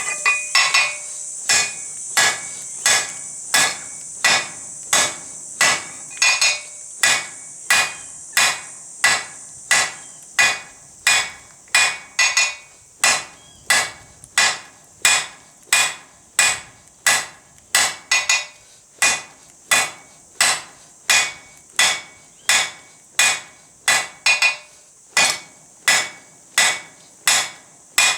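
Hand hammer striking a piece of hot car-axle steel on an anvil in a steady rhythm of a little under two blows a second, some blows ringing briefly: the steel is being forged down to a point for a hammer eye drift.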